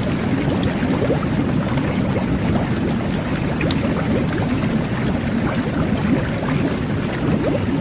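Jet bath (whirlpool tub) running: a steady low rush of churning water with many small bubbles popping through it.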